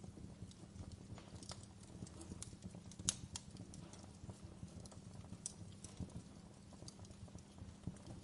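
Wood fire crackling: irregular small snaps and pops over a low, steady rumble, with one sharper pop about three seconds in.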